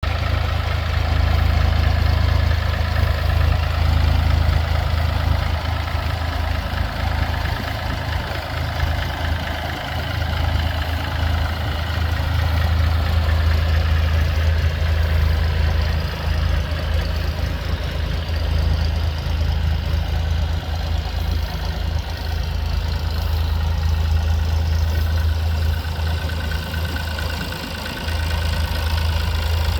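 Massey-Ferguson 135 tractor's three-cylinder Perkins diesel engine idling steadily with a diesel knock.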